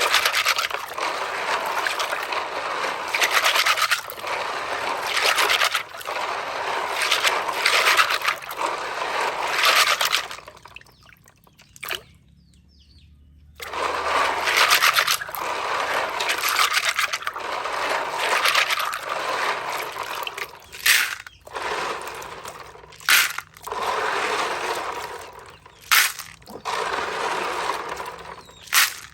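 Water sloshing and splashing in repeated strokes, pausing briefly about eleven seconds in, with a few sharp knocks in the second half.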